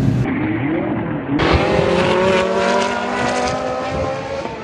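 A car engine revving up, its pitch rising. About a second and a half in, a Ferrari's engine takes over, running at high revs with its pitch slowly climbing as it accelerates.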